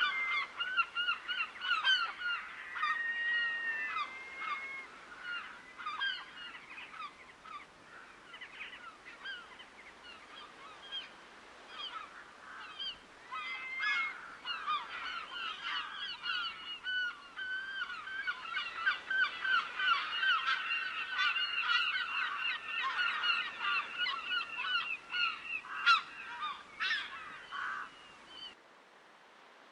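A large flock of birds calling in a dense, overlapping chorus of short calls. It thins out for a while, swells again and then stops abruptly near the end.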